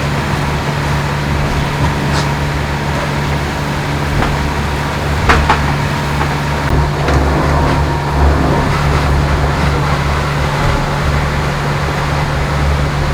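Foiling IMOCA racing yacht at speed: a steady loud low drone of hull and foils with rushing water, and a few sharp knocks through the boat, the clearest about five seconds in.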